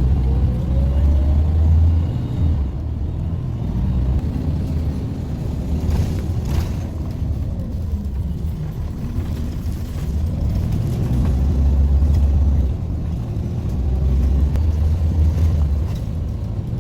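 Bus running on the road: a steady low engine and road rumble with a whine that slowly rises and falls in pitch as it changes speed.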